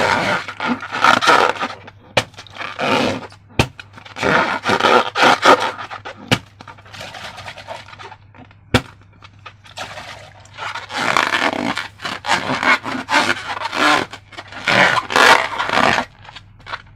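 Hands working slime and rubber balloons, making repeated scraping, squishing rubs with a few sharp clicks in between.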